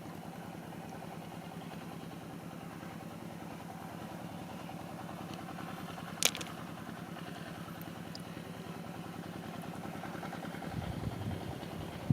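A motor running steadily with an even drone, one sharp click about halfway through, and a low rumble coming in near the end.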